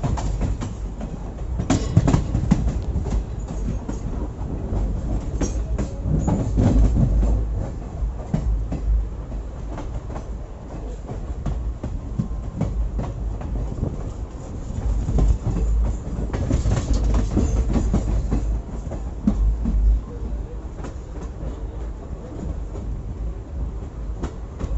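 Passenger train coach running, heard from on board: a continuous low rumble with irregular clatter of wheels over rail joints, swelling louder several times.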